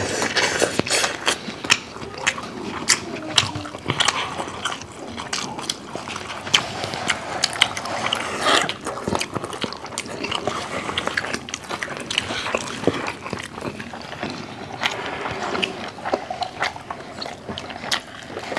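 Close-miked mukbang eating: several people chewing with wet lip smacks and mouth clicks, coming irregularly and fast.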